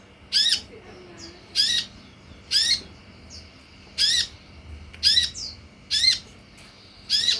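A sunbird repeating one short, sharp, high call note about once a second, seven times, in a steady rhythm: a bait call used to get kept sunbirds to answer.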